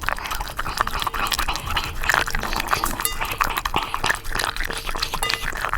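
A Shiba Inu making a dense, irregular run of short clicks and taps.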